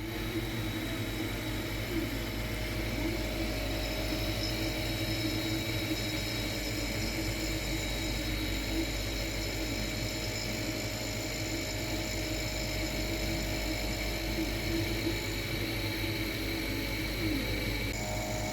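A machine motor running with a steady whir and a low hum, its tone shifting abruptly near the end.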